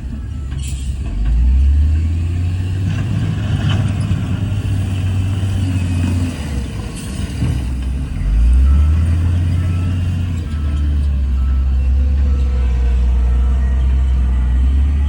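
Heavy diesel engine of earthmoving machinery working under load. It picks up about a second and a half in, eases off around six seconds, and pulls hard again about eight seconds in. A faint reversing beeper sounds from about ten seconds in.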